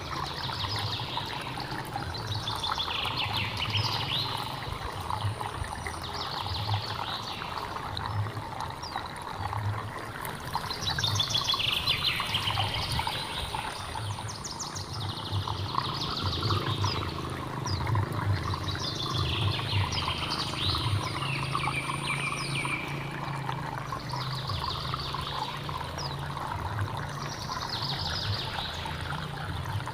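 Small hill stream trickling steadily. A bird sings short, quick warbling phrases, repeating every few seconds.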